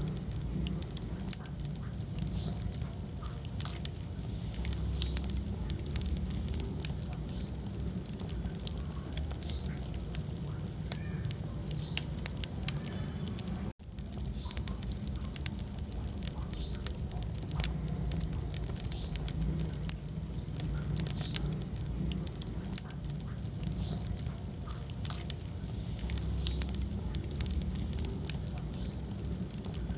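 Wood fire burning in a fireplace: irregular sharp crackles and pops over a steady low rumble of the flames. The sound cuts out for an instant about halfway through.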